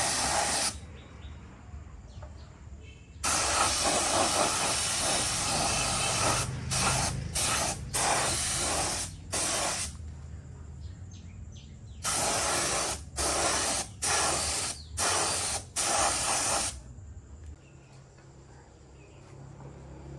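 Repeated bursts of pressurised spray hissing: one long burst of about three seconds, then a quick run of short bursts, stopping near the end.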